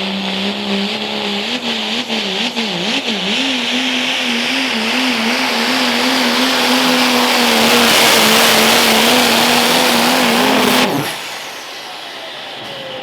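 Turbocharged pro stock diesel 4WD pulling truck under full throttle pulling the sled. The engine pitch wobbles up and down in the first few seconds, then holds steady and grows louder. It cuts off suddenly about eleven seconds in as the throttle closes, leaving a falling whine.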